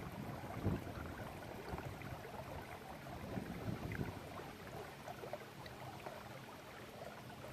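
Faint water lapping and trickling against a kayak, with scattered small splashes.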